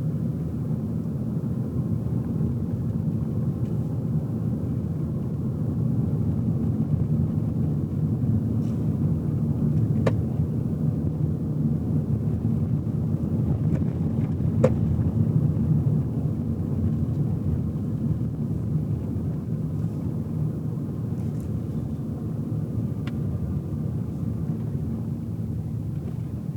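A car driving, heard from inside the cabin: a steady low rumble of engine and road noise. Two faint clicks come about ten and fifteen seconds in.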